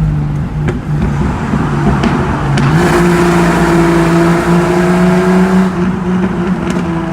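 Jeep Cherokee XJ engine running through a new aftermarket exhaust, a steady drone under acceleration. The exhaust gets louder and a little higher in pitch from about three seconds in, then eases off near six seconds.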